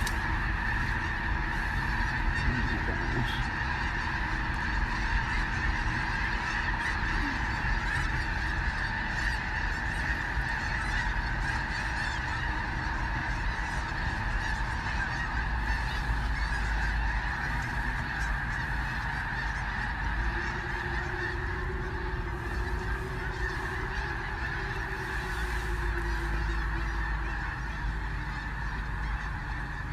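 A huge flock of sandhill cranes calling together as it lifts off: a dense, unbroken chorus of rolling, rattling calls over a low rumble.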